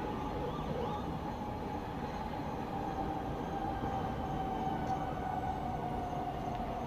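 Night-time town ambience: a steady low rumble of distant traffic, with a drawn-out tone sliding slowly down in pitch across it.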